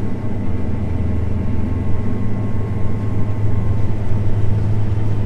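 John Deere S690 combine harvester running steadily at working speed, a continuous low machinery drone.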